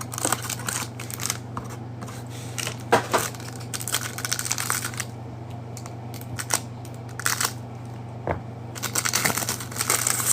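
A trading-card hanger box being torn open and its plastic-wrapped cards unwrapped: irregular crinkling and tearing of cardboard and wrapper.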